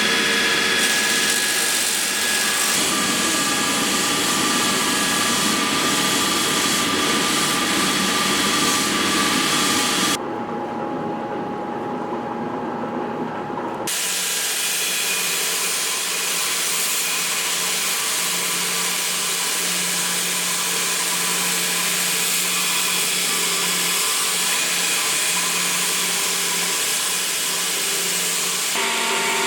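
Steady running of a workshop power tool or machine, changing abruptly about ten and fourteen seconds in as one stretch of sound gives way to another.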